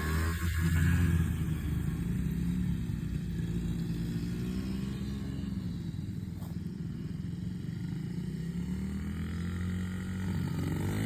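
Small motorbike engine running under throttle, its pitch rising and falling slowly as the revs go up and down.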